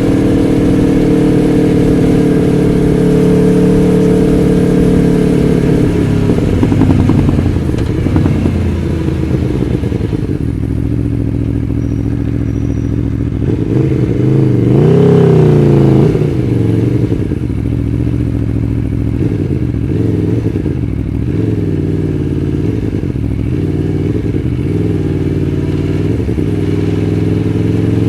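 Aprilia Tuono V4 1100 Factory's V4 engine at low speed. It holds a steady note for about six seconds, then settles lower, gives a short rev up and down about halfway through, and the revs climb again near the end.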